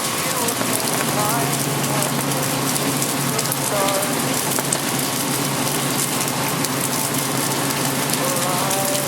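Steady summer rain falling and pattering on street surfaces, in many small drops. About a second in, a low steady hum joins it.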